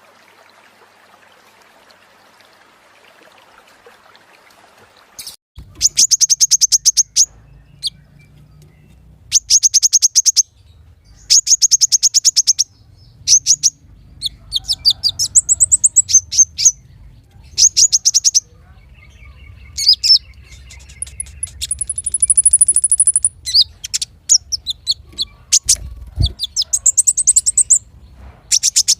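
Small songbird singing in rapid, high trills, each run a little over a second long and repeated after short pauses, mixed with shorter chirps and a thin high whistle late on. The song starts about five seconds in, after faint hiss.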